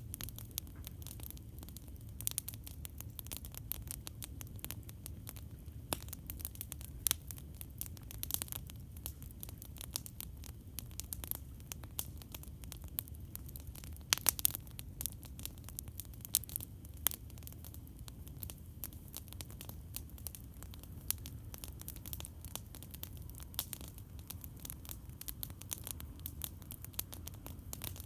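Campfire crackling: burning wood gives off irregular small snaps and pops, with a cluster of louder pops about halfway through, over a low steady rumble.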